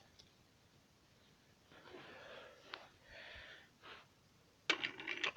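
Soft breaths close to the microphone: two gentle exhalations with a small click between them, then a quick intake near the end.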